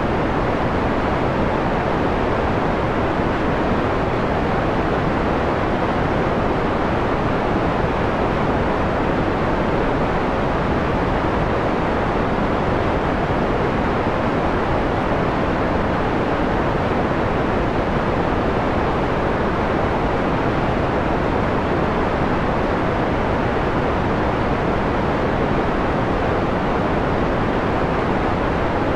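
Steady, unbroken synthetic white noise filtered to a mellow, dull rumble-and-hush, with most of the bright hiss taken off the top.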